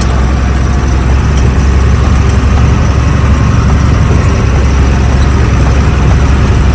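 Heavy truck's engine running steadily while the truck drives, a deep, even drone heard from inside the cab.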